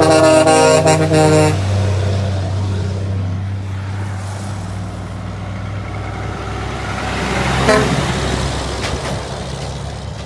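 A truck's horn blowing a held chord that cuts off about a second and a half in, over the low, steady running of a heavy truck's diesel engine, which swells louder about three-quarters of the way through.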